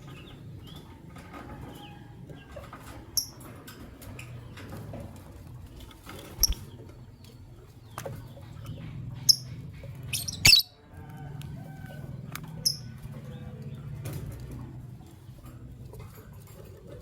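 Lovebirds giving short, sharp high-pitched chirps and squawks about half a dozen times, the loudest about ten seconds in, with brief wing flutters. A steady low hum runs underneath.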